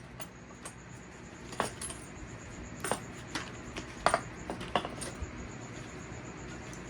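Light metallic clinks and taps, about six spread over several seconds, from metal parts and hand tools being handled during strut work.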